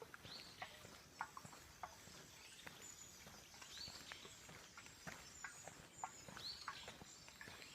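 Faint wild birdsong. An arching chirp repeats three times, with short chirps and clicks scattered between and a thin high tone that comes and goes.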